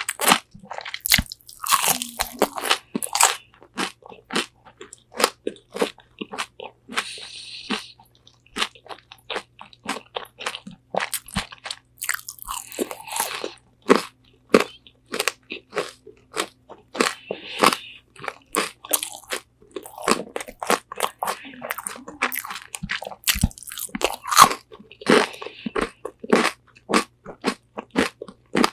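Close-up biting and chewing of crispy Korean fried chicken wings, a rapid run of sharp, crisp crunches coming in clusters of bites.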